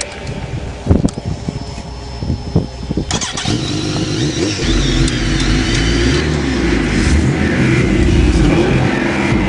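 A vehicle engine with scattered knocks and pops over the first few seconds, then running steadily and getting louder.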